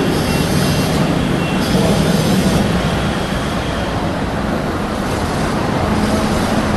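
Steady street traffic noise: road vehicles running past, with a low engine hum.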